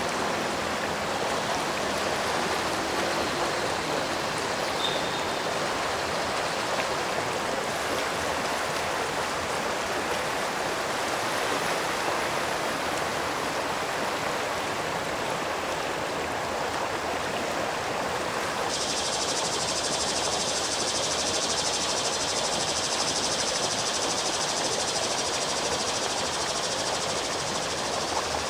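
Steady rushing of a stream or river. About two-thirds of the way through, a high steady hiss joins in over the water.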